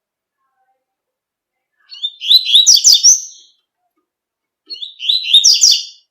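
Double-collared seedeater (coleiro) singing the tui-tui song type: two short phrases of rapid, sweeping high notes, about two seconds in and again near the end.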